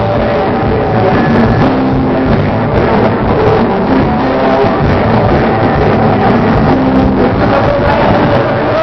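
Loud live rock music from a band: drum kit and guitars playing steadily.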